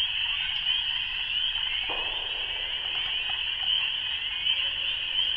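A dense chorus of frogs calling in spring, a steady, high-pitched wall of sound.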